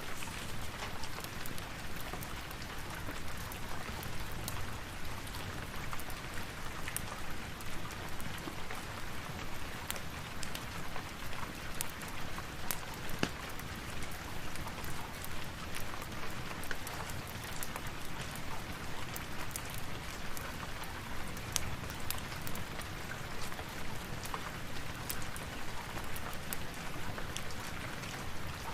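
Steady rain, an even hiss with many small sharp ticks scattered irregularly through it.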